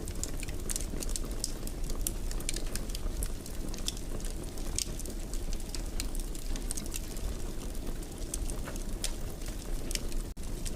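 Wood fire burning in a fireplace: a steady low rumble of flames with frequent irregular crackles and pops. The sound cuts out for an instant about ten seconds in.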